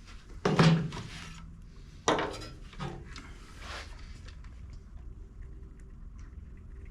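Clattering and scraping of the mower and tools being handled while getting set to drain the engine oil. The loudest clatter comes about half a second in and lasts nearly a second, followed by shorter knocks and scrapes around two, three and nearly four seconds in.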